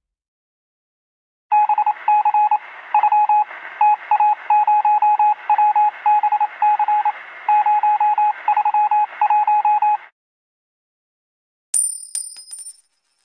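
Morse code sound effect: a single high-pitched tone keyed into short and long beeps over a hiss of radio static, lasting about eight and a half seconds. Near the end, a coin-drop sound effect: a coin clinking down with a few high metallic rings.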